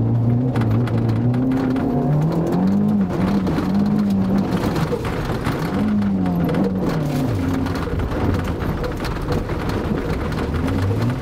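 Rover 200's engine heard from inside the cabin while being driven hard on grass, the engine note climbing about two seconds in and dropping back about six seconds in as the driver accelerates and lifts off.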